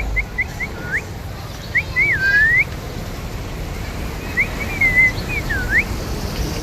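Indian ringneck parrot whistling: a run of short rising and falling notes, a longer swooping whistle about two seconds in, and another run of up-and-down notes near the end.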